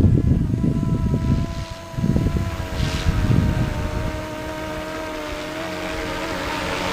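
470-size electric RC scale helicopter in flight: a steady motor and rotor whine with several held tones, and the rotor hiss swelling near the end. Wind buffets the microphone for the first few seconds.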